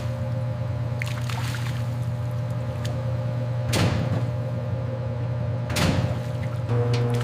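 Steady low machinery hum with a few constant tones, interrupted twice, about four and six seconds in, by a brief sharp whoosh or clatter.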